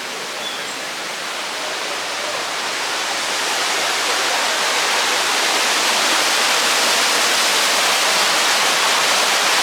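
A steady rushing noise with no tone or rhythm to it, growing louder over the first half and then holding.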